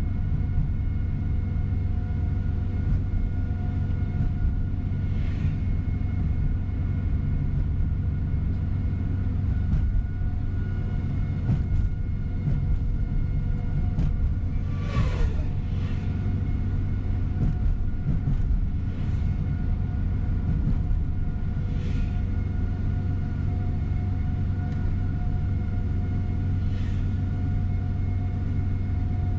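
Tour coach bus driving, heard from inside the cabin: a steady low engine and road rumble with a faint whine, occasional light rattles, and a brief falling squeal about halfway through.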